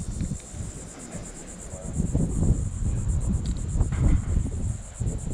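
Insects, crickets by their sound, chirping in a steady, fast-pulsing high drone, with wind buffeting the microphone in low gusts that grow stronger about two seconds in.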